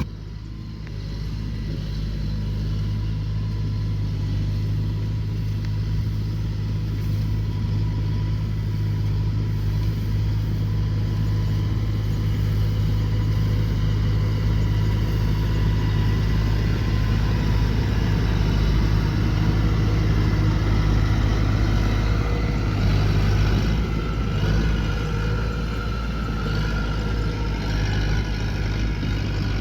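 Rice combine harvester's engine running steadily at high power, a continuous low drone with a faint mechanical whine above it.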